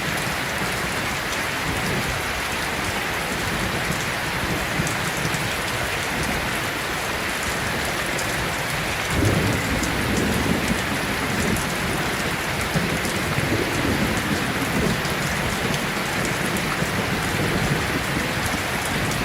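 Steady heavy rain falling on hard surfaces. About halfway through, a low roll of thunder comes in and rumbles on under the rain.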